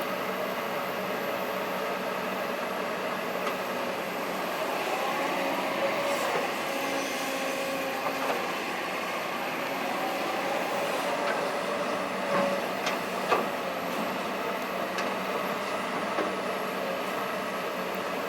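Kobelco SK200-8 excavator's diesel engine running steadily under work, with its hydraulics whining in rising and falling pitch and a few sharp knocks about two-thirds of the way through.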